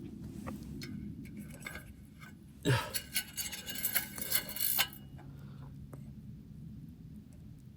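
Camp gear being handled: a brief cluster of light metal and glass clinks and rattles about three seconds in, with a few single ticks around it, over a steady low rumble.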